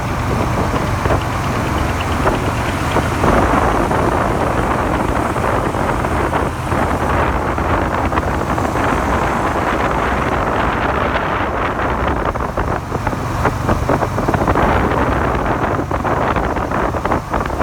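Suzuki SV400 V-twin motorcycle engine running at steady road speed while riding, heavily mixed with wind rushing over the microphone. This engine has a makeshift "file-repaired" crankshaft and is known to knock.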